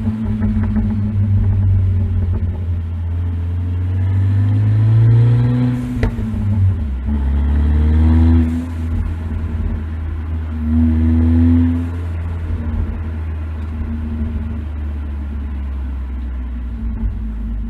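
Turbocharged 2011 Audi A4 B8 with a K04 turbo upgrade, accelerating at cruise: the engine note rises, drops at a gear change, and does so three times, with a sharp click at the first change. It then holds a steady note for the last several seconds.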